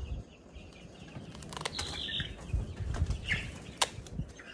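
A month-old chicken flapping and rustling its wing feathers while it is held for wing clipping, with a couple of sharp snips from the poultry shears cutting the primary flight feathers and a couple of short chirps.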